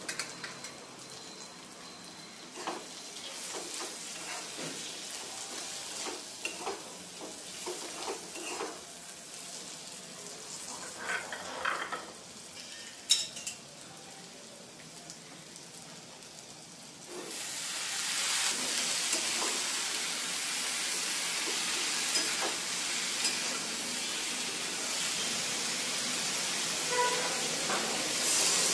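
Potatoes and spices frying in a steel kadhai, with a spatula scraping and clicking against the pan as they are stirred. About seventeen seconds in, a much louder steady sizzle starts, as brinjal pieces go into the hot oil.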